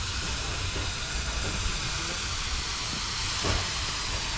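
Steam locomotive 5526 hissing steam steadily over a low rumble, with a soft knock about three and a half seconds in.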